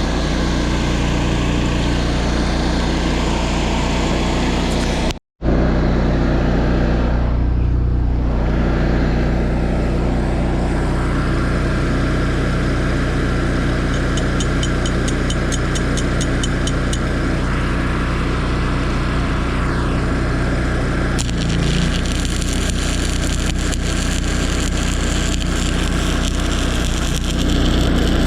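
Engine-driven welding machine running steadily, with the hissing crackle of a stick-welding arc over it; everything drops out for a split second about five seconds in.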